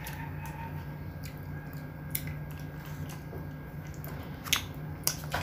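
A child eating spaghetti with a fork: soft chewing and mouth noises with a few short, sharp clicks, the loudest about four and a half seconds in, over a steady low hum.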